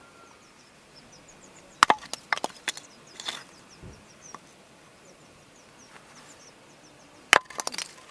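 Wood being chopped: two bouts of sharp knocks and cracks, one about two seconds in and another near the end, the first strike of each bout the loudest.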